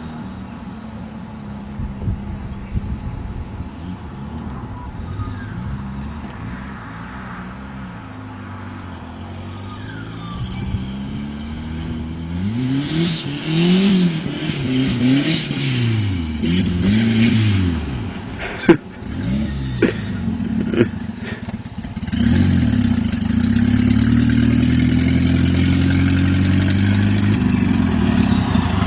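Nissan S12 Gazelle's turbocharged CA20ET engine idling, then revved in a series of quick rises and falls with a hiss over them from a little under halfway. One sharp crack comes partway through, then the engine settles into a steadier, louder note for the last quarter.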